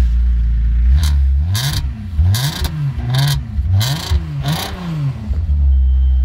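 A vehicle engine being revved up and down about six times in quick succession, with a rushing noise at each peak, then settling back to a steady idle near the end.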